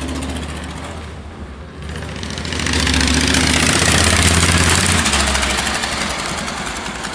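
A vehicle engine running, swelling louder for a couple of seconds about midway and then fading away.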